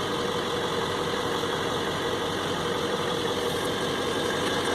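Truck engine running steadily at low revs.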